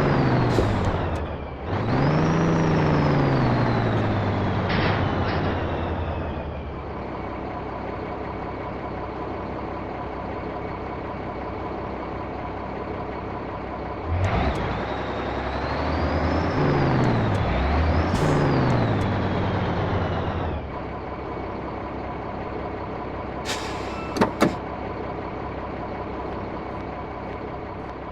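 1967 Scania 110 truck's diesel engine under way. It climbs in revs and drops back twice, as through gear changes, and runs steadily between. Near the end come a few short, sharp clicks.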